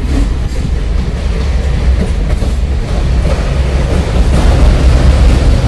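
Train running, heard from an open window of the moving coach: a steady, heavy low rumble of wheels on the rails with scattered clicks, growing a little louder near the end.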